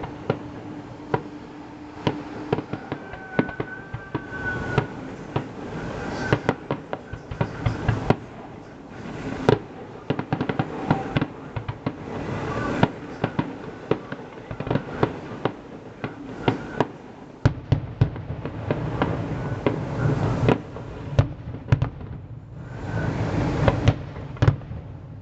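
Fireworks display: a dense run of sharp bangs and crackles in quick succession, with a brief whistle a few seconds in. A steady low rumble builds under the bangs over the last few seconds.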